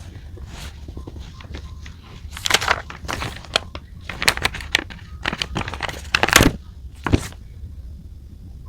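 Paper and stationery handled on a desk: irregular crinkles, rustles and light taps, loudest about two and a half and six seconds in.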